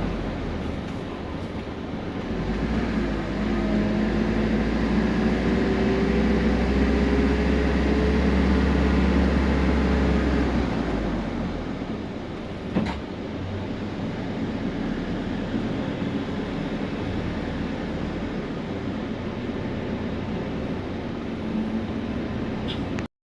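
Temsa Prestij SX midibus pulling under load: its engine drones with a rising whine for several seconds, then eases into steadier running about halfway through. There is a single click a little past halfway, and the sound cuts out just before the end.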